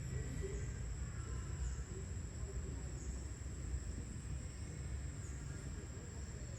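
Insects drone in one steady high note over a constant low rumble, with a few faint short calls on top.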